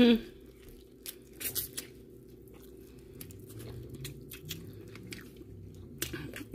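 A person chewing seafood close to the microphone, with scattered small mouth clicks over a faint steady low hum.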